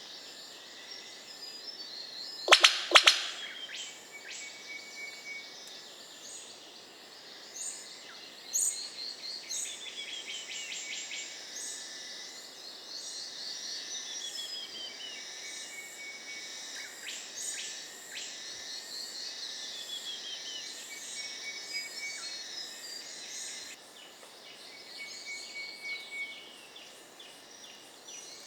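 Rainforest birds calling over a steady high hum: repeated whistled notes that slide down in pitch, and many short chirps. About two and a half seconds in, a quick run of two or three very loud, sharp sounds stands out above everything else.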